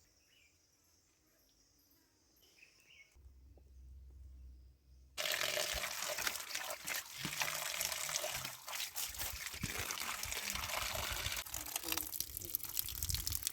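Water pouring and splashing as freshly picked wild mushrooms are washed to get the soil off. It starts abruptly about five seconds in, after a few seconds of near silence with a faint low hum.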